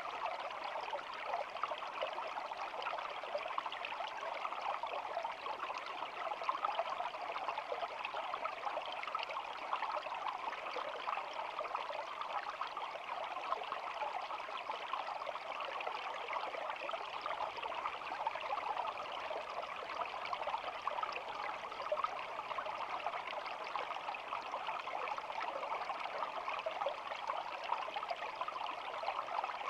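A small shallow stream babbling, a steady, even rush of flowing water with no pauses or separate splashes.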